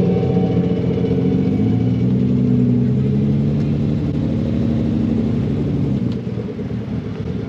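Car engine running at low revs, its pitch drifting slowly up and down, fading somewhat about six seconds in.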